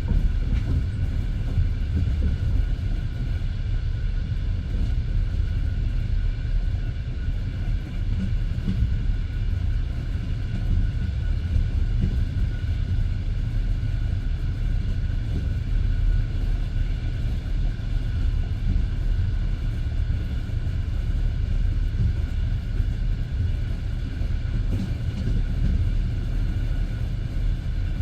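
Passenger train car rolling along the line: the wheels on the rails make a steady low rumble, with a faint steady higher hum above it.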